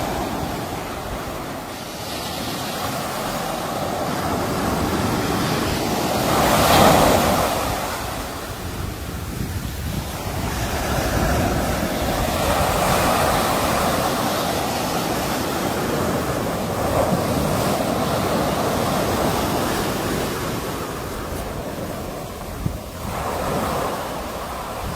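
Sea waves breaking and washing on the shore in slow, uneven surges, the largest about seven seconds in, with wind in the background.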